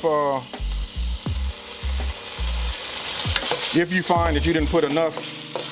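Chicken pieces sizzling in hot oil in a wok while a metal wok spatula turns them, scraping and clicking against the pan.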